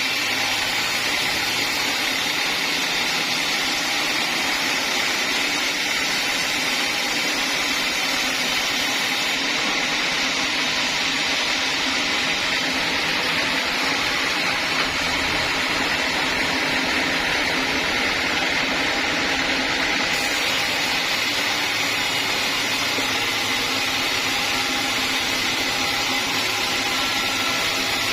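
Sawmill saw running steadily, a continuous even machine noise with no breaks, as teak is sawn.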